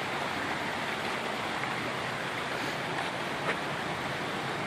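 Steady rush of water pouring through a broken street from what seems to be a burst water pipe under the road.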